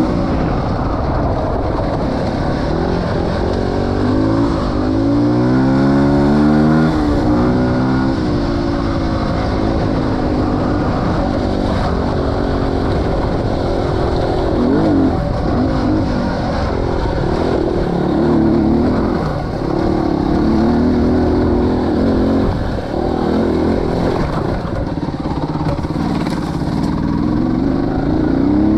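Off-road motorcycle engine being ridden, its revs rising and falling again and again as the throttle is opened and closed, with the steepest swings in the first several seconds.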